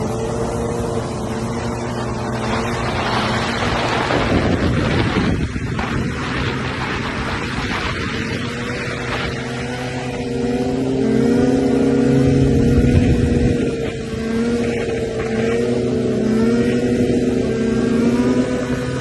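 Car engines idling with a steady, slightly wavering hum. A louder rushing swell comes about three to five seconds in, and a deeper engine sound grows louder around twelve seconds in.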